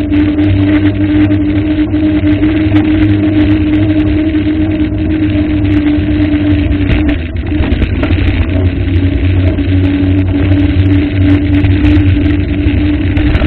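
An engine running steadily with a constant hum, which dips briefly about halfway through and then comes back.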